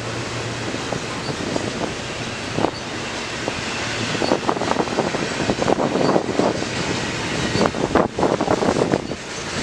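Freight train rolling past: a steady rail rumble with irregular clanks and knocks from the wheels and cars, with wind buffeting the microphone.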